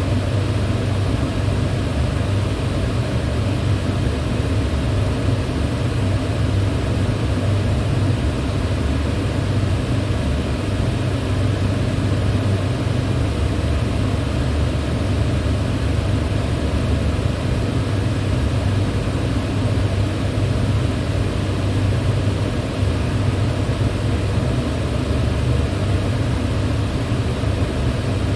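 Electric fan running steadily: an even rush of air over a strong low hum, with no change in speed or level.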